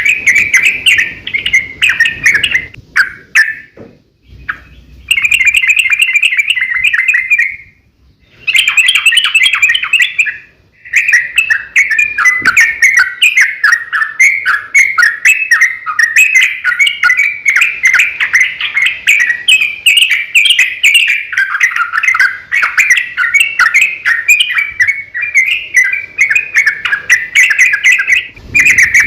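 Yellow-vented bulbul (trucukan) singing a long, rapid chattering song in quick rolling notes. It breaks off briefly three times in the first eleven seconds, then runs on unbroken.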